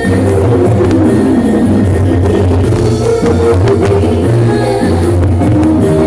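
Loud live jaranan dance music, with drums beating under held pitched notes.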